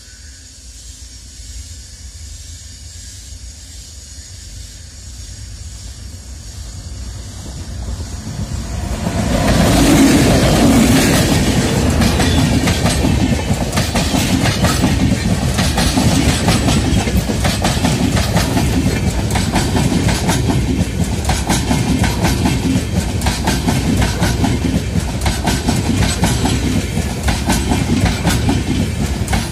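Express train drawn by a WAP7 electric locomotive, approaching with a low rumble that grows over the first several seconds and comes loudest about ten seconds in as the front passes close by. After that the passenger coaches run past with a steady, rapid clickety-clack of wheels over the rail joints.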